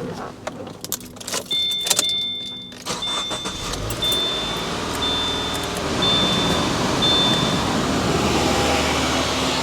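A 2014 Subaru Forester XT's engine is started about three seconds in and settles into a steady idle. A dashboard warning chime beeps about once a second, six times, over the start. A few clicks and rattles come before it.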